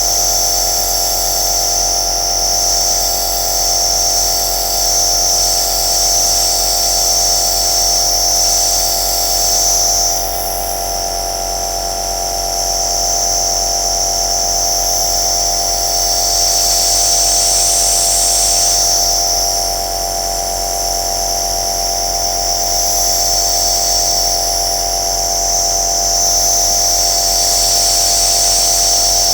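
Compressor nebulizer running: a steady motor hum with a high hiss of air and mist that grows louder and softer every several seconds.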